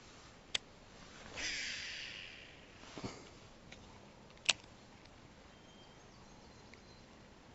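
A fishing rod and reel being cast: a sharp click, a brief hissing swish of line, then a dull knock and a second sharp click.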